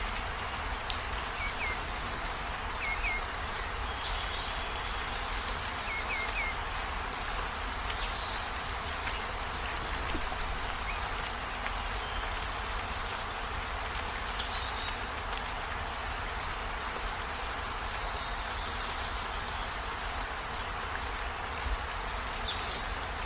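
Rainforest ambience: a steady, dense hiss of insects or rain, with a bird giving a short, high, falling call every few seconds. A few quick groups of two or three chirps come in the first seven seconds.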